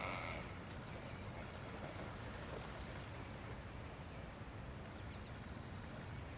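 Steady low outdoor background noise, with a short, high-pitched bird chirp about four seconds in and a fainter one near the start.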